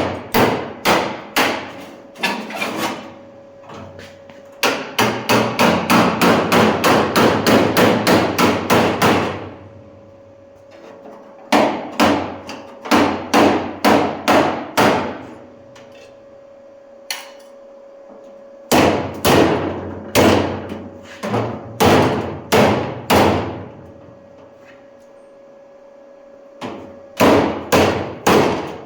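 Hammer blows on sheet-metal bodywork, coming in runs separated by pauses. The longest run is a fast, even series of about four strikes a second. A faint steady hum runs underneath.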